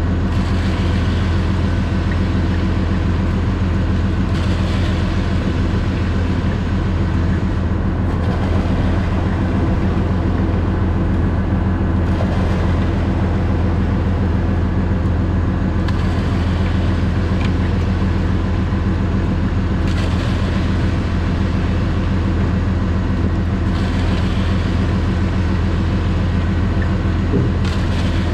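Concrete mixer truck's diesel engine running steadily with a deep drone, and a hiss that swells and fades about every four seconds.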